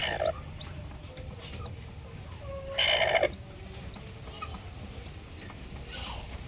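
Aseel chicken calling: a short cluck at the start and a louder, half-second call about three seconds in. Repeated small high chirps, about two a second, run alongside.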